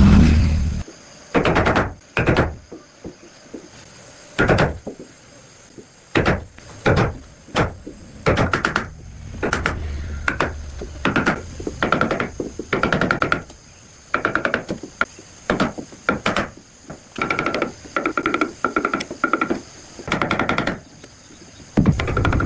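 A loud low thump, then a long run of irregular knocks and thuds, many with a short squeak, coming about every half second.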